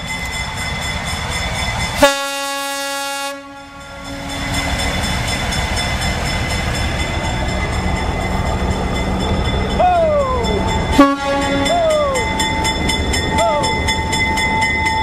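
A passenger train rumbling past on the track, the rumble building and holding. About two seconds in it gives one blast of about a second that cuts off sharply. Near the end a few short sounds fall in pitch.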